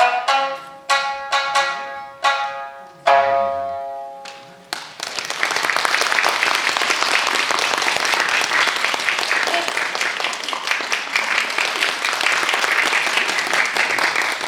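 Shamisen playing the last plucked notes of a minyo accompaniment, ending on a strong final stroke that rings and fades, then an audience applauding for the rest.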